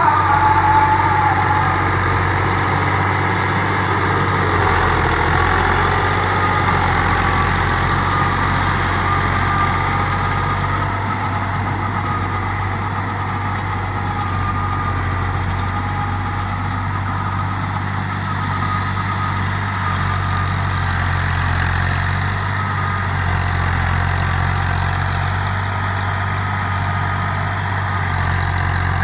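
New Holland tractor's diesel engine running steadily at a constant speed.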